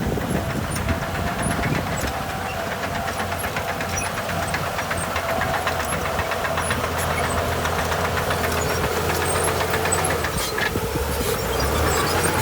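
Heavy diesel earthmoving machinery running steadily, a low engine drone with a faint wavering whine over it.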